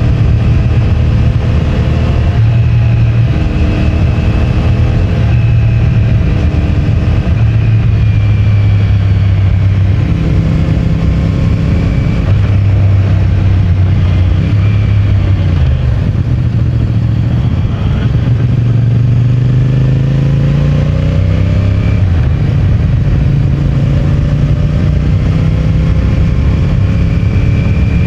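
CFMOTO 450MT's parallel-twin engine through its stock exhaust, under way on the road. The engine note climbs and drops in steps through the gears, with one long rise in pitch as the bike accelerates about two-thirds of the way through.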